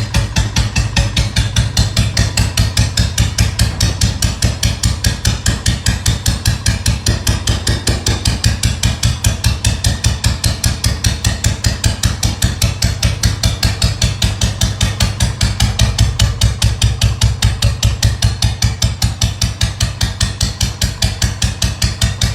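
Old Royal Enfield Bullet's single-cylinder four-stroke engine idling, its exhaust giving a steady, even run of thumps several times a second.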